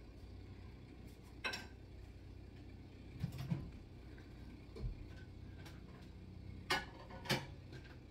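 A handful of sharp clicks and light knocks, small hard objects set down and handled on a work surface, over a steady low hum. The two loudest clicks come close together near the end.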